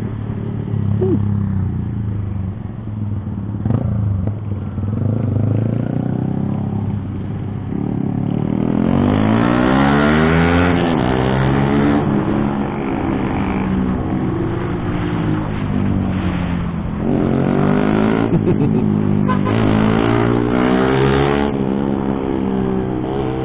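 Keeway CR152 motorcycle's single-cylinder engine running low, then pulling away with its pitch rising about eight seconds in, holding a steady higher note, and rising again in further pulls near the end.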